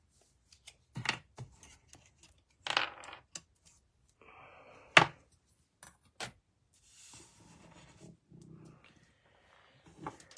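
Scattered clicks, taps and short rustles of paper and craft tools being handled, with one sharp click about five seconds in.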